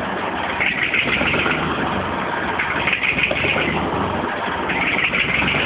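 Fordson Dexta tractor's three-cylinder diesel engine running steadily at idle, freshly started, with a hiss that swells about every two seconds.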